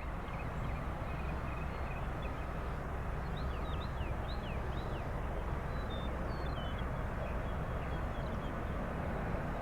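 Steady low wind rumble on the microphone, with small birds chirping in short, quick downward-sliding notes, busiest in the middle.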